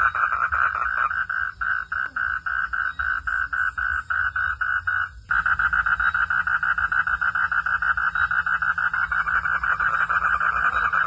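Frogs calling at night in rapid pulsed trills, about five pulses a second. The calls break off suddenly about five seconds in, then resume as a denser, continuous chorus over a low steady rumble.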